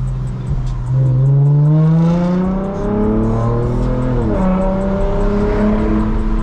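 Lexus IS350's 3.5-litre V6 through a muffler-deleted exhaust with no secondary cats, accelerating. The engine note climbs for about three seconds, drops sharply at an upshift about four seconds in, then holds steady.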